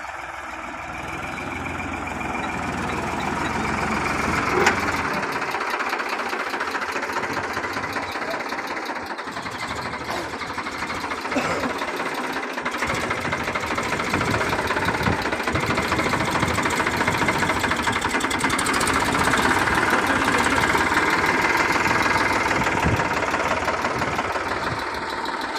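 Farmtrac 45 tractor's diesel engine running continuously, louder over the first few seconds and then holding steady.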